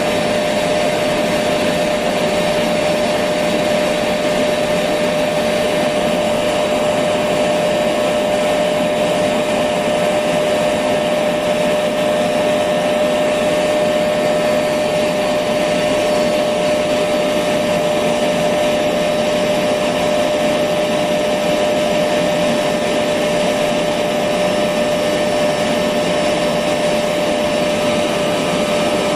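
Electric vacuum cleaner running steadily: a constant motor whine with a strong hum just below 600 Hz over a wide airy rush, not changing at all.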